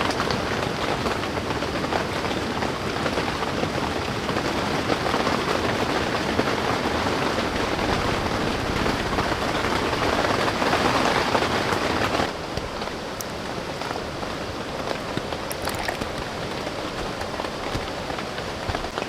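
Steady heavy rain falling, which drops suddenly to a softer level about two-thirds of the way through.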